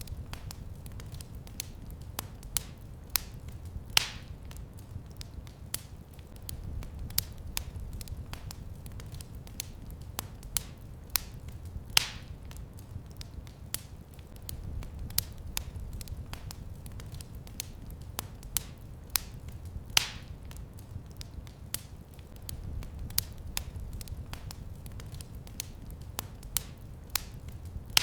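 Wood fire crackling in a fireplace: a steady stream of small irregular crackles and snaps over a low, even rumble of the flames, with a few louder pops.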